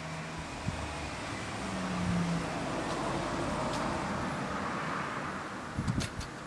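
Homemade small disc sander's motor running at low speed with a steady low hum, while a hissing noise swells through the middle and fades. A few sharp knocks near the end.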